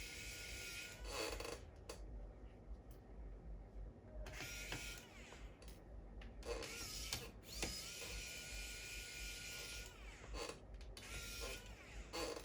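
Small electric screwdriver running in several short runs of one to two seconds, taking out screws while a laptop is dismantled, with clicks and taps between the runs.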